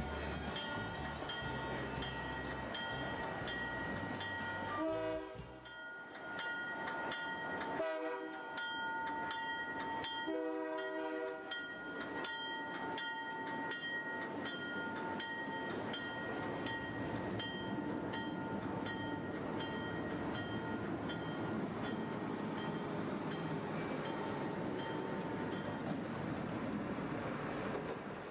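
Locomotive bell ringing steadily, about two to three strikes a second. Three short horn blasts sound over it about five, eight and ten seconds in.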